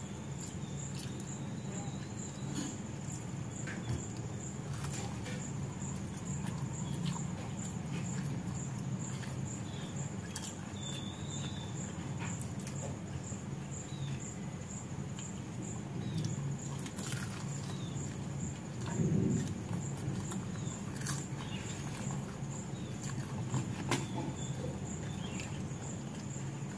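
Chewing and soft mouth clicks from eating a fried samosa, heard as scattered short clicks. Behind them are a steady low hum and a continuous high-pitched chirp pulsing rapidly and evenly.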